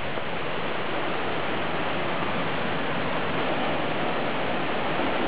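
Steady rushing of a small waterfall and its stream.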